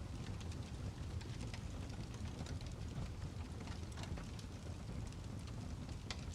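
Fireplace fire crackling: scattered sharp clicks and pops over a steady low rumble.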